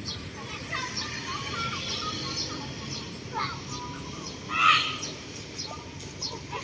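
Birds chirping in short scattered calls over a steady low hum of street ambience, with one short loud call about two-thirds of the way in.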